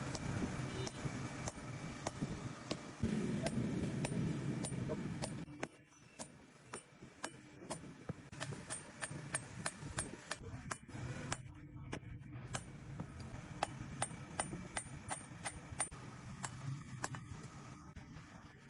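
A low steady rumble for the first few seconds, then a long run of hammer blows on metal, roughly three a second, some with a bright ring: a blacksmith forging steel by hand.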